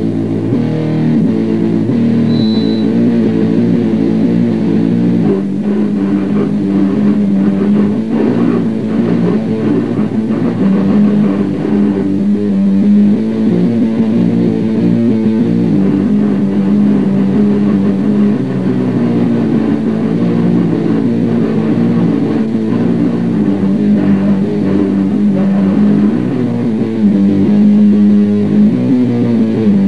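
Loud heavy rock music driven by electric guitar and bass guitar, from a grind/noise compilation.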